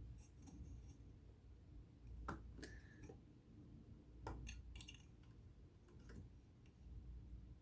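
Faint, scattered clicks and taps of small parts being handled and fitted on an all-metal vintage sewing machine, with a few sharper clicks about four to five seconds in.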